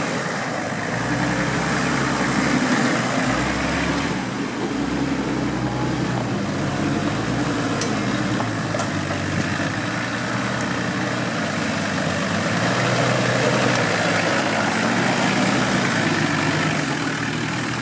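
Off-road vehicle's engine running steadily, with a low throbbing note and small shifts in engine speed.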